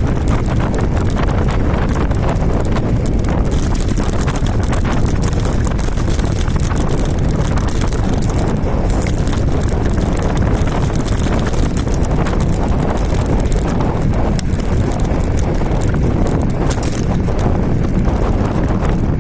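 Riding noise on an electric scooter with a hoverboard hub motor: steady wind rumble on the microphone with a constant patter of small clicks and rattles from the scooter on the road surface.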